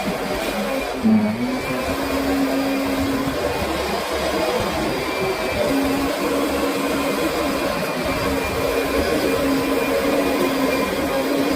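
Kirby Sentria upright vacuum cleaner running steadily with a constant motor hum, and a brief knock about a second in.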